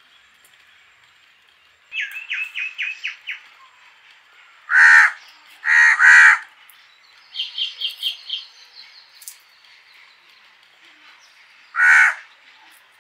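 Birds calling. There are two quick runs of short repeated notes, and four loud harsh calls: three close together about five to six seconds in and one near the end.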